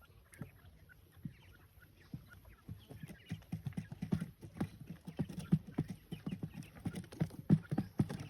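Dull, irregular knocking and tapping, sparse at first and turning into a rapid, busy patter about three seconds in.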